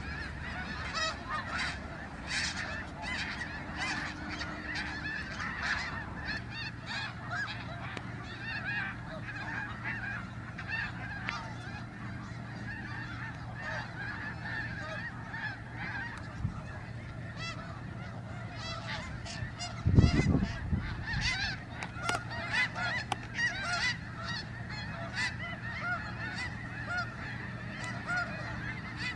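A large flock of snow geese calling continuously, many overlapping honks at once. About two-thirds of the way through there is a single loud low thump.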